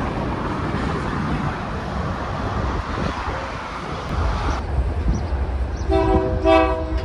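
A steady rushing noise, then about six seconds in a locomotive's multi-chime air horn sounds two short chord blasts.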